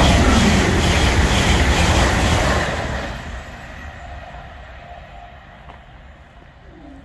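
Class 803 electric express train passing close by at speed: a loud rush of air and wheels with a quick rhythmic clatter. About three seconds in it begins to fade as the train draws away.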